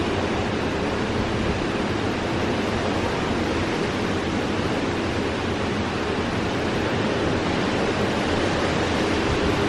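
Hurricane wind blowing hard and without let-up, a dense, even rush of noise.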